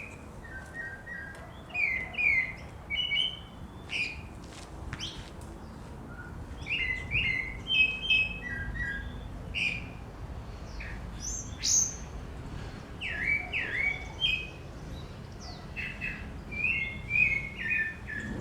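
Several small birds singing in a dawn chorus: short chirps, trills and quick downward-slurred whistles overlap and repeat throughout.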